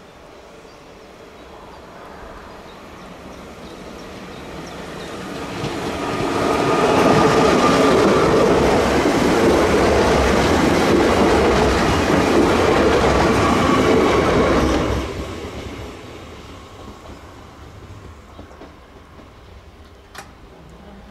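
SNCF TER regional multiple unit passing at speed: its running noise grows as it approaches, stays loud with rumble and wheel clatter over the rails for about eight seconds as it goes by, then drops away quickly as it recedes.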